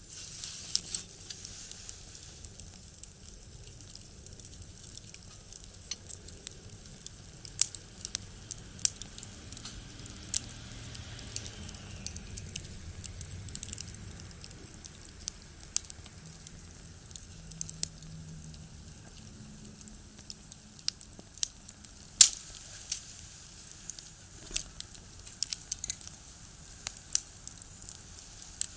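Firewood burning in a small box stove, crackling with irregular sharp pops, one much louder pop about three quarters of the way through.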